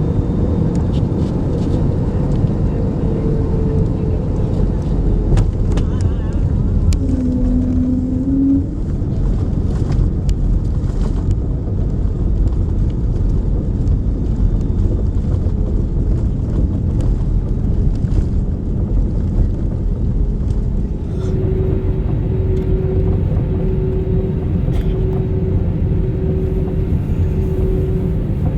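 Steady low rumble of cabin noise inside an Airbus A321neo. A short steady tone sounds about a quarter of the way through, and a faint tone repeats evenly in the last quarter.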